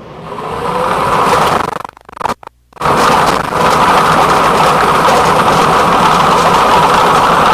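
Motorized lottery ball machine starting up and mixing the numbered balls. Its motor spins up with a rising whine, the sound drops out briefly about two seconds in, then the machine runs with a steady, loud whirring noise.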